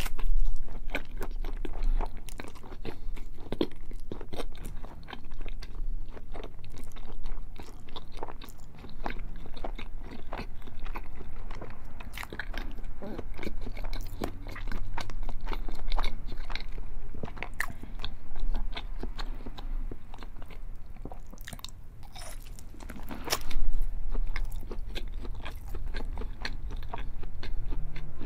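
A person biting into and chewing a thick slab of cooked bacon, with crisp crackling crunches from the browned crust and steady chewing between bites. One bite late on is louder than the rest.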